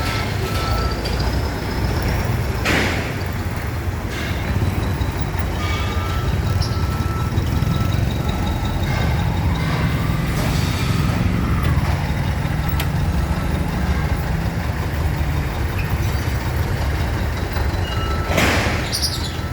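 Heavy flatbed truck's engine running under load as it drives off with an excavator aboard, rising for a few seconds in the middle. Short electronic beeps sound on and off, and two brief hisses come about three seconds in and near the end.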